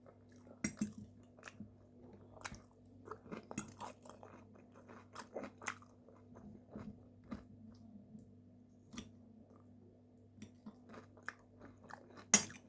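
Close-miked chewing and crunching of food, a quick irregular run of small crisp crunches and mouth clicks, with one louder crunch near the end.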